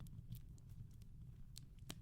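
Soft crackling wood fire: a faint low rumble with a few scattered sharp pops, two of them near the end, the last the loudest.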